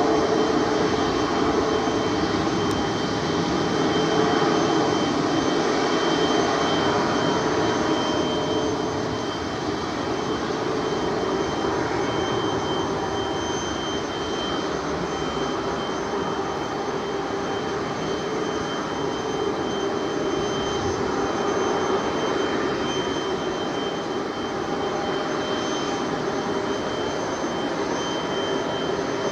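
Jet engines of an Airbus A320neo-family airliner running steadily, a sustained rush of noise with a thin high whine on top, easing slightly after the first third.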